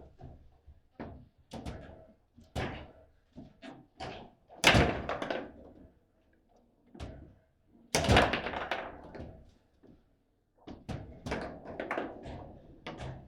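Foosball table in play: irregular sharp knocks and clacks as the ball is struck by the rod-mounted players and hits the table walls, with two heavy slams about a third and two thirds of the way through.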